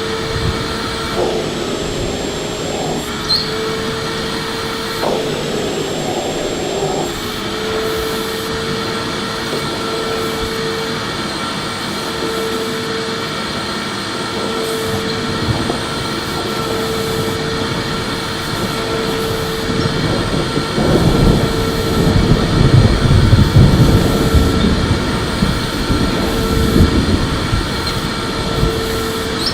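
Electric vacuum cleaner running steadily, a constant motor whine over rushing airflow. About two-thirds of the way through, a louder, rougher low rushing swells for several seconds, then eases back.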